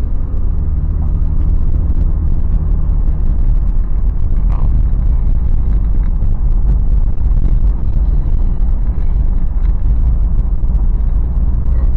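Toyota 4Runner's 4.0-litre V6 and tyres heard from inside the cabin while driving: a steady low rumble of engine and road noise.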